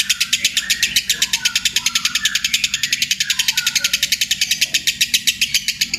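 Lovebird's long 'ngekek' chatter: a shrill, rapid rattle of about ten notes a second, held without a break.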